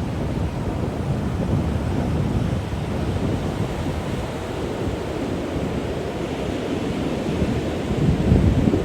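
Low, rumbling outdoor noise of wind or surf, with no clear calls or tones, swelling louder about eight seconds in.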